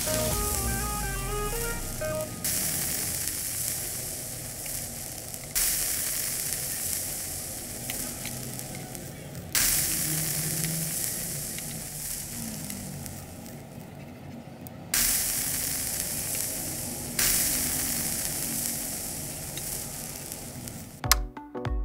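Egg batter frying in oil on a small hot griddle, a steady sizzle that flares up suddenly about five times as fresh batter is spooned onto the pan, each time dying down slowly.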